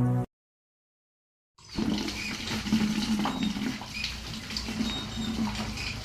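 A music track stops abruptly just after the start. After about a second of silence comes steady hissing ambient noise, like running water, with a faint low hum and a few faint chirps.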